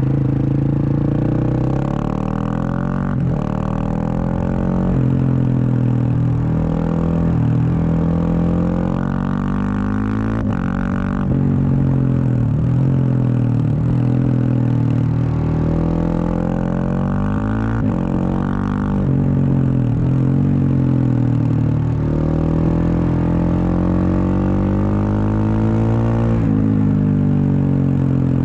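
Husqvarna 701 Supermoto's single-cylinder engine through a Wings exhaust, ridden on the road: the engine note climbs and falls with the throttle, with a few sudden drops in pitch as it shifts or rolls off.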